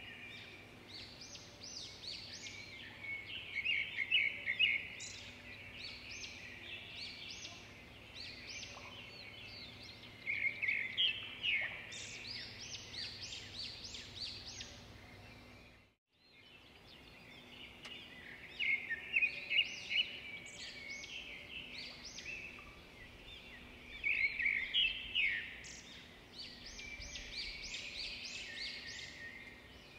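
Small birds chirping and calling in bursts of short, rapid high notes, over a faint steady hum. The sound cuts out briefly about halfway through.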